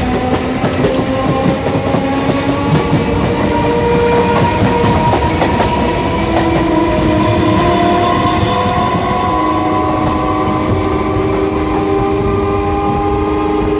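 MEMU electric train running on the track, wheels clattering over rail joints, with several steady whining tones that drift slowly in pitch.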